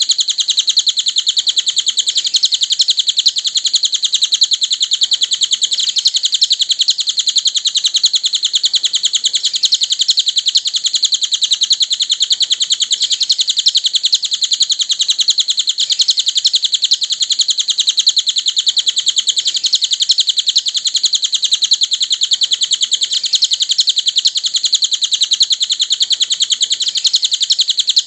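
Cililin songbird chirping in a fast, unbroken stream of high notes, a masteran recording used to teach other cage birds its song.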